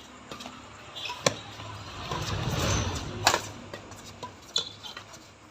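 Badminton rally: rackets striking the shuttlecock in three sharp cracks, the loudest at about three seconds, with a swell of noise building up to it.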